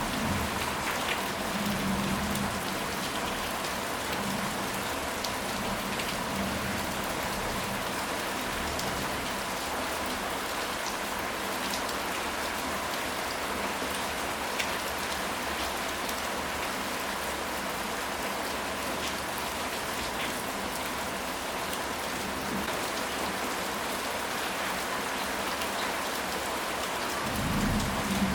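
Steady heavy rain falling and pattering on surfaces, with scattered individual drop ticks. A low rumble swells at the start and again near the end.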